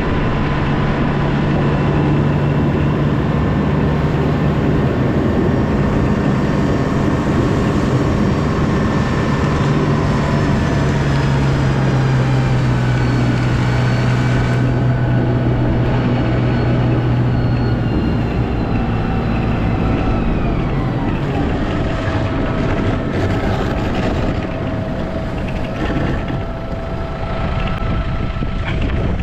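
Snow plow vehicle's engine running steadily under load, its pitch dropping about ten seconds in and again about twenty seconds in.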